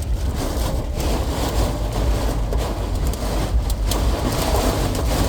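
Heavy rain pounding on a car's roof and windshield, heard from inside the cabin over a steady low rumble from the car.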